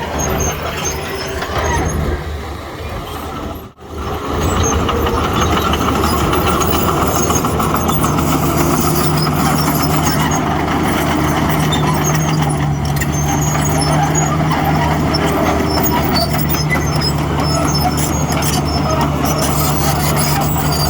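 Heavy diesel earthmoving machinery running steadily, its engine drone constant. It cuts out for an instant a little under four seconds in, then resumes.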